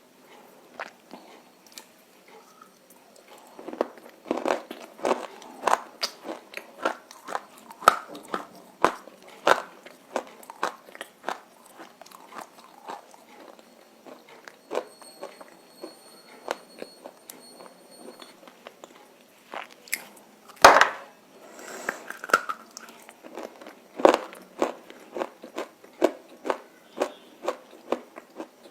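Roasted edible clay (Nakumatt) being bitten and chewed: irregular sharp crunches, thickest in the first third, with one much louder crunch about three quarters of the way through.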